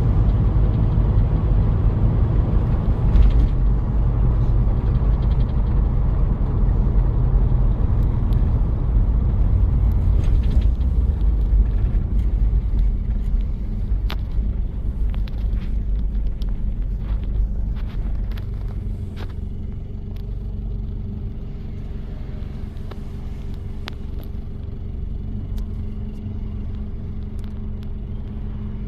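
1993 Toyota Prado's diesel engine and road rumble while driving, heard from inside the vehicle, with scattered light clicks and rattles. About two-thirds of the way through the rumble eases and a steadier engine hum remains.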